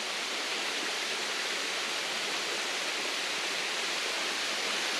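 Waterfall rushing steadily: a constant hiss of falling water.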